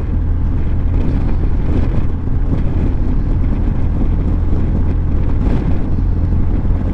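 Motorcycle engine running steadily while riding at cruising speed, with wind rushing past the microphone.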